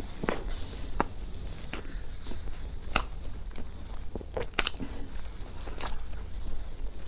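Close-up eating sounds of soft cream-filled bread coated in meat floss: wet mouth clicks and smacks while chewing, spaced roughly a second apart. Soft tearing of the bread by hand comes in around the middle.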